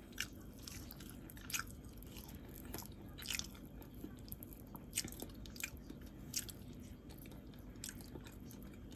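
Quiet chewing of soft food, with short, wet mouth clicks at irregular moments.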